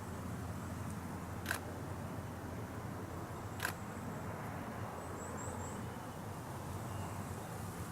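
Two camera shutter clicks about two seconds apart, over steady outdoor background noise with a few faint bird chirps.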